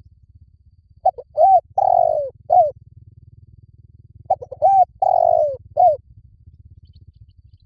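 Spotted dove cooing: two phrases about three seconds apart, each a few short coos and one longer, falling coo, over a faint low hum.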